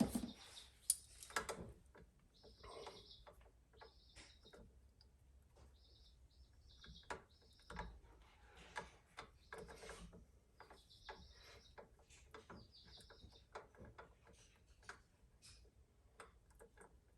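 Faint scattered clicks and small scrapes from a blade working at the thick plastic sheathing of an electrical cable, with short high chirps, like birds, repeating every second or two.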